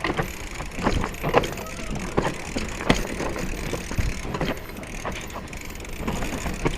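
Mountain bike clattering down a rough trail: irregular knocks and rattles of the frame, chain and components as it hits bumps, over a steady low rush of wind and tyre noise.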